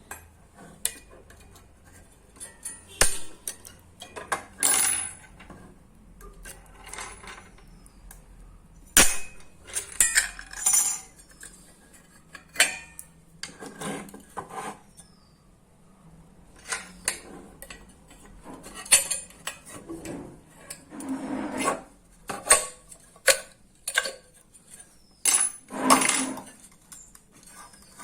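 Irregular metallic clinks, knocks and scrapes of hand tools working on a microwave oven magnetron, dismantling it to free its magnets.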